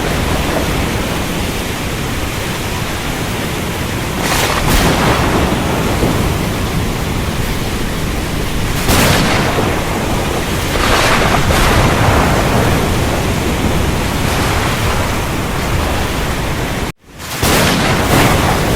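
Thunderstorm: heavy steady rain with several louder rushing swells of thunder. The sound cuts out abruptly for a moment near the end, then resumes.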